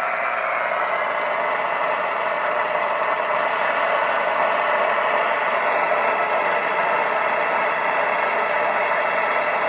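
President HR 2510 CB radio hissing with steady open-band static through an external speaker, with no voice coming through.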